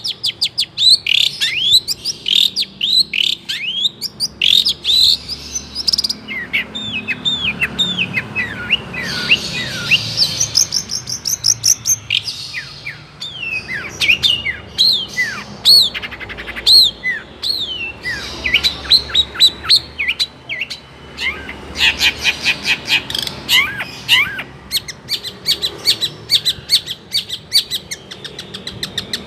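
Long-tailed shrike (cendet) singing a fast, varied song of chirps and sweeping whistles, packed with mimicked calls of other birds, including swiftlets.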